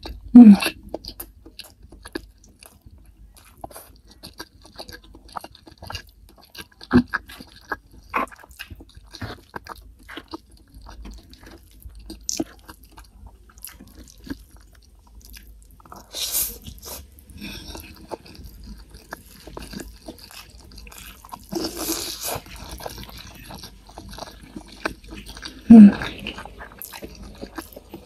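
Close-miked chewing and mouth sounds of a person eating boneless chicken feet in sweet soy sauce with rice by hand: many small wet clicks and smacks. Two short louder voice sounds stand out, about half a second in and near the end.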